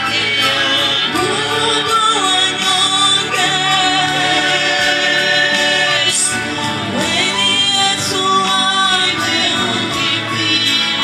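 Gospel worship music: voices singing a praise song together over live instrumental accompaniment.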